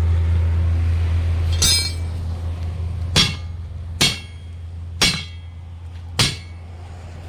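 Five sharp metallic strikes, spaced about a second apart, each with a short ring, like a hammer hitting metal during truck tyre work. A steady low machine hum runs underneath.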